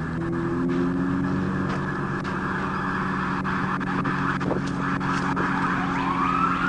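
Police patrol car's engine running steadily with a steady hiss while the car sits stopped after crashing off the road. A siren starts wailing upward near the end.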